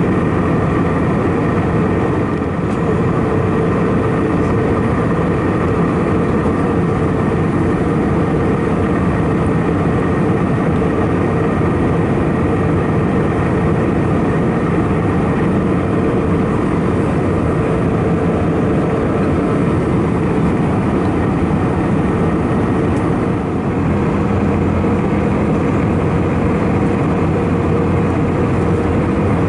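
Steady cabin noise of an Airbus A319-111 in flight: an even rush of airflow with the hum of its CFM56 turbofan engines, carrying a few constant tones.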